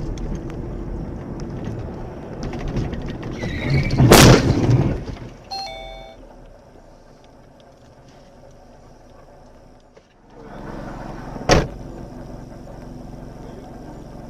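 Car driving noise with a loud crash about four seconds in, followed by a few short beeps, and a single sharp bang later on.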